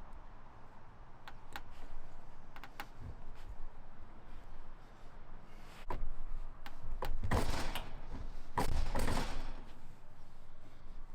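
Handling noise while wiring a motor: a few light clicks, then two longer rasping, rustling stretches of wires and small tools being worked.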